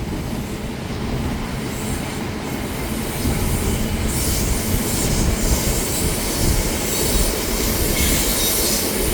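Loaded coal cars of a BNSF freight train rolling past close by: steel wheels rumbling and clattering on the rails, with a high hiss of wheel on rail. The noise grows louder about three seconds in.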